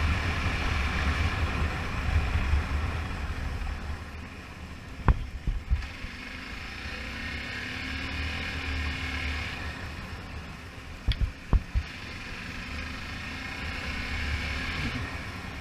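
Hero Xpulse motorcycle on the move: engine rumble mixed with wind rushing past the microphone, swelling and easing, with a few brief knocks about five and eleven seconds in.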